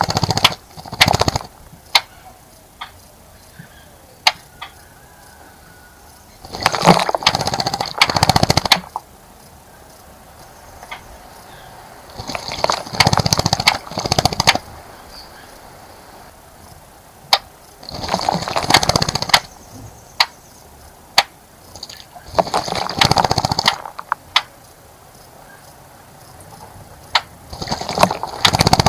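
Bird splashing in a bird bath, fluttering its wings in the water in about five bursts of a second or two each, several seconds apart, with sharp single ticks between the bursts.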